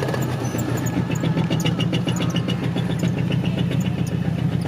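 Pickup truck engine running steadily while the truck is driven, with a light rapid ticking on top.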